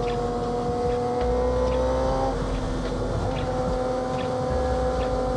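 Suzuki GSX-R600 inline-four with an M4 exhaust running steadily at freeway cruise, under heavy wind noise on the microphone. Its pitch creeps up, then eases off about two seconds in as the throttle is rolled back, and comes back on about a second later.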